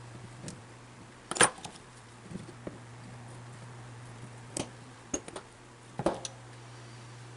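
Tools and small metal parts being handled on a workbench: a scatter of sharp clinks and knocks, the loudest about a second and a half in, over a steady low hum.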